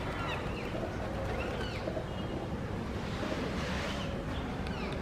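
Rose-ringed parakeets giving several short, arching calls over a steady low background rumble.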